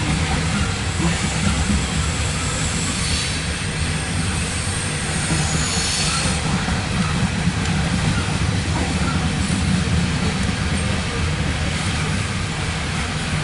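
Loaded coal hopper cars of a CSX freight train rolling past, a steady low rumble of steel wheels on rail, with brief high-pitched wheel squeals about three and six seconds in.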